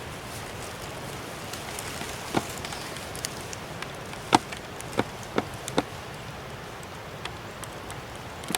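Steady rushing of a loud waterfall, with scattered sharp snaps and crunches of footsteps on twigs and dry leaves. The loudest snap comes about four seconds in.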